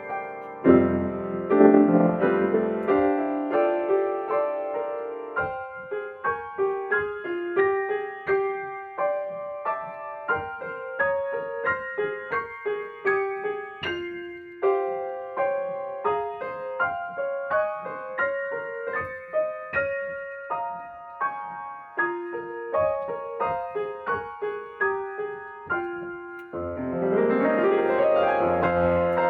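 Slow, ambient solo piano or keyboard piece: single melody notes struck a few times a second over sparse chords, swelling into fuller sustained chords near the start and again in the last few seconds.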